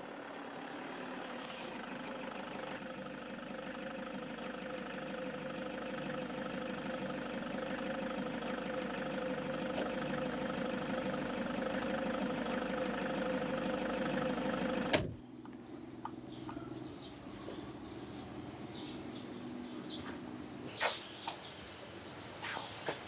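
A car engine running steadily, heard from inside the cabin, growing slowly louder for about fifteen seconds and then cutting off suddenly. A quieter background follows, with a thin steady high whine and a few light clicks.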